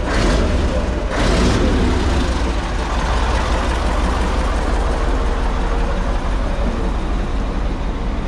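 Large diesel truck engine running just after a cold start. Two short rushes of noise come in the first second and a half, the revs fall away, and the engine settles into a steady idle.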